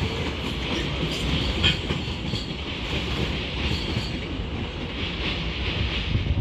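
London Overground Class 710 electric multiple unit pulling out of the platform: a steady rumble of wheels on the track with a few faint clicks.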